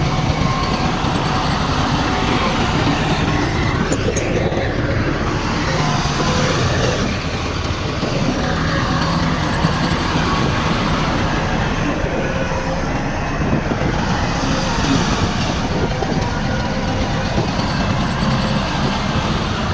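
Heavy earthmoving machinery running steadily, a dense diesel engine din with thin whining tones that shift in pitch over it.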